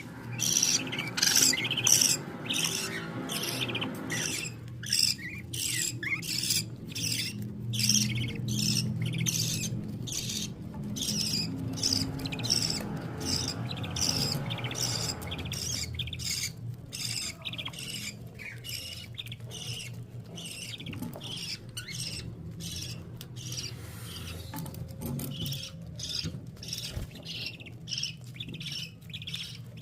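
Baby birds cheeping, with a rapid string of short, high calls, several a second, that keeps going throughout. A low steady hum runs underneath for about the first half.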